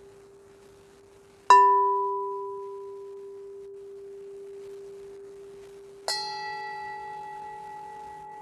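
A struck metal instrument ringing: a steady sustained tone underneath, then a sharp strike about a second and a half in that rings and fades over a couple of seconds, and a second strike near the end whose several tones keep ringing.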